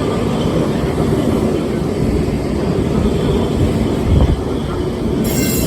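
Lisbon Tram 28 running over its rails, heard from on board: a steady low rumble of the wheels and car body. A high hiss joins in near the end.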